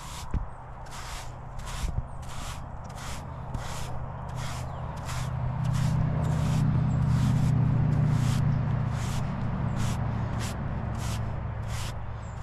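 A grooming brush swept over a young horse's coat in steady, even strokes, about two a second. A low hum swells through the middle and then eases off.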